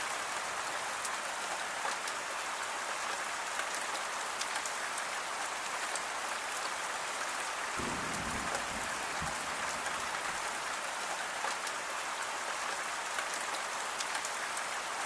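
Steady rain falling, with many individual drops ticking, and a brief low rumble a little past halfway through.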